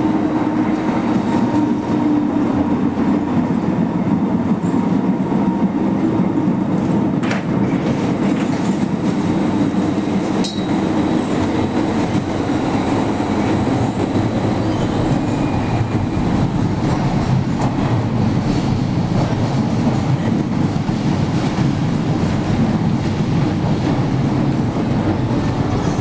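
MTR M-Train running on the Kwun Tong line: steady wheel and traction running noise, with two brief sharp clicks about seven and ten seconds in.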